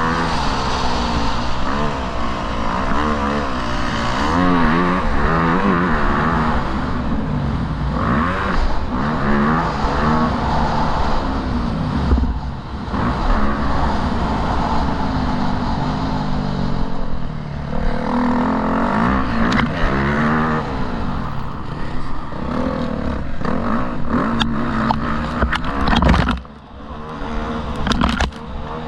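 Motocross bike engine running under load, its revs rising and falling over and over as it is ridden. A string of sharp clicks and knocks comes near the end, during a short drop in the engine's loudness.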